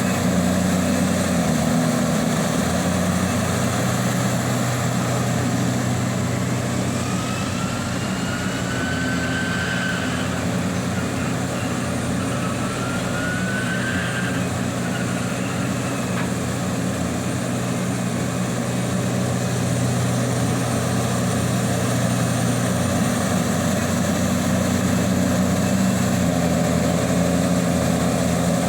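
Diesel engine of a Liebherr 984 hydraulic excavator running steadily under load, with two brief rising whines about a third of the way in and about halfway.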